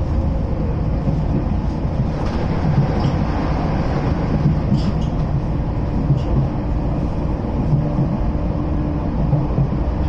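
Train running, heard at the gangway between two cars: a steady rumble of wheels on rail with the gangway bellows and connecting plates rattling, and a few scattered sharp clicks.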